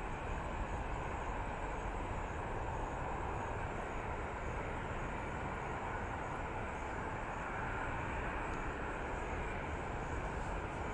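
Airplane engine noise, a steady rushing sound without a clear rise or fall.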